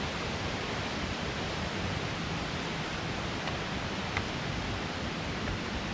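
Steady rushing of a waterfall, an even hiss with a couple of faint clicks about halfway through.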